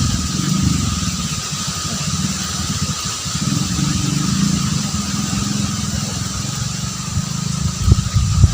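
A small motor vehicle's engine running steadily, with a few knocks near the end.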